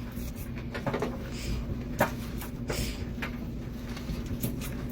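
Light clicks and rustles of a gloved hand working laundry detergent sheets in a container of wet laundry paste, over a steady low hum.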